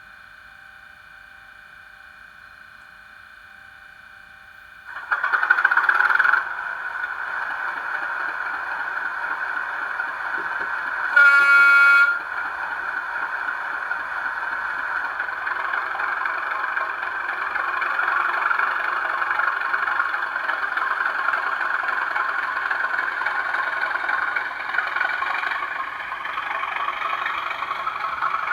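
DCC sound decoders of two model Class 37 diesel locomotives playing their start-up sequence through small speakers: a steady whining tone, then the diesel engine sound firing up about five seconds in, a horn blast lasting about a second near the middle, and then the engine running steadily.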